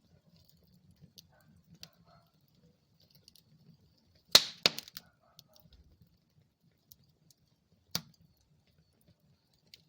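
Wood fire crackling in a fireplace: a soft low rumble of flames with scattered small ticks, a loud sharp pop about four and a half seconds in followed quickly by a second, and another pop near eight seconds.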